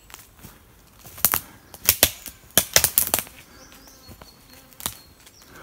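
Footsteps pushing through dry forest undergrowth, twigs and brush crackling and snapping in short clusters of sharp cracks, with a pause of about a second and a half before a last crack near the end.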